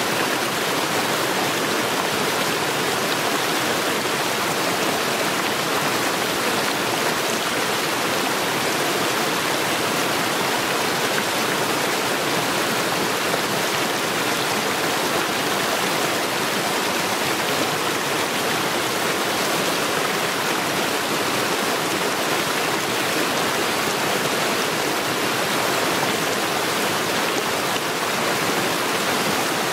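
Mountain stream running over stones, a steady, even rush of water.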